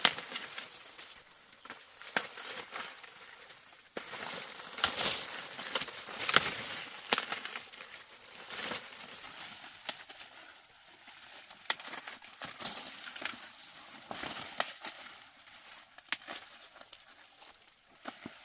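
Dry plant material rustling and crinkling, with scattered sharp snaps and clicks, busiest in the first half.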